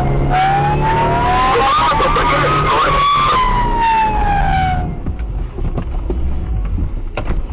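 Police car siren wailing in slow rising and falling sweeps over vehicle running noise. The siren cuts off about five seconds in, leaving engine and road noise with a few knocks near the end.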